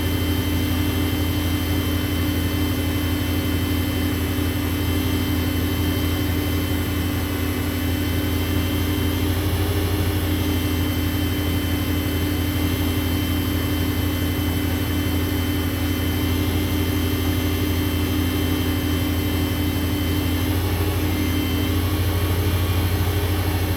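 WEN benchtop lathe running at a steady speed, a constant motor hum and whine, spinning an acrylic pen blank that is being polished with Zona abrasive papers.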